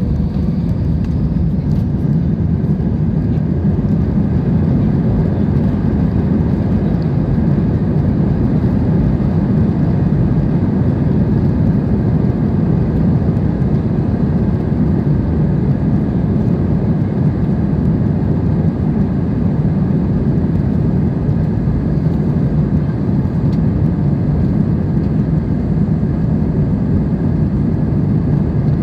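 Steady, loud low rumble of a jet airliner's engines and airflow heard inside the cabin of a Jetstar Japan Airbus A320 during its takeoff in strong wind.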